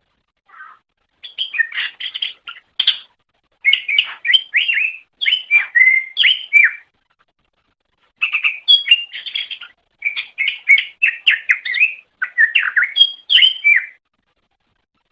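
Cucak ijo (green leafbird) singing: three phrases of quick, varied chirps and whistled notes, separated by short pauses of about a second.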